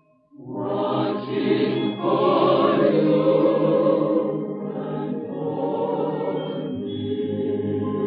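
A choir singing a hymn, entering after a brief silence at the start and swelling about two seconds in.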